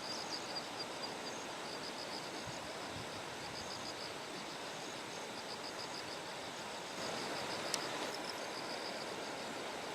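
Bell crickets (suzumushi) chirping in rapid, evenly repeated high-pitched pulses over a steady background hiss, with a single sharp click about three quarters of the way through.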